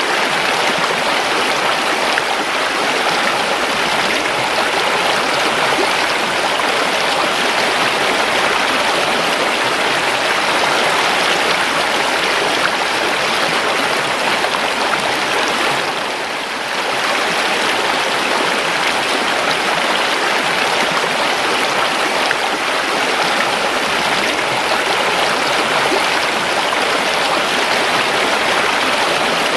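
A river flowing steadily: an even rush of running water, dipping briefly in level about halfway through.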